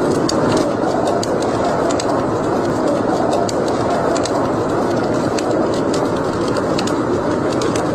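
Fireplace fire crackling: frequent sharp, irregular pops and snaps over a steady rushing noise.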